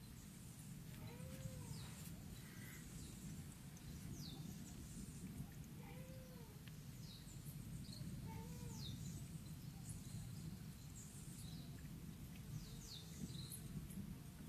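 Faint, steady low rumble, which the observer takes for continuous thunder from the erupting La Soufrière volcano's ash cloud, under birds chirping: repeated short falling high chirps and three short arching calls.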